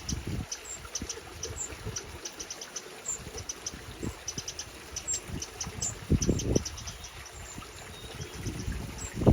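Eurasian wrens calling: many short, high-pitched ticking and chirping notes in quick runs, from parents and fledglings.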